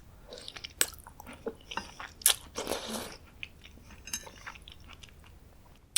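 Close-up eating sounds: chewing a mouthful of green bean and potato stew, with a few sharp clicks, the loudest a little over two seconds in.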